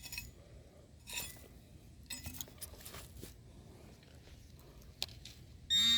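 Faint scrapes and small metallic clinks of a hand digging tool working in shallow soil to recover a metal-detector target, with a short, louder pitched tone near the end.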